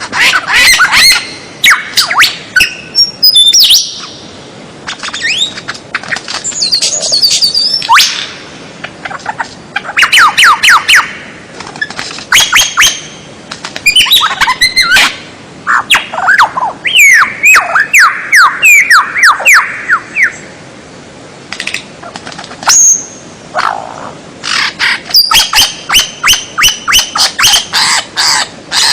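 Loud, dense mix of songbird calls: runs of sharp chirps, rapid trills and whistled notes sliding up and down, one call type after another with brief gaps. It is a 'masteran' birdsong tutor track, played to caged songbirds so that they learn the calls.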